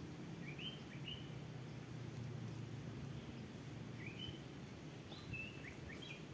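Faint birds chirping: short upward-sweeping notes in small clusters about half a second in, around four seconds, and again near the end, over a steady low outdoor background noise.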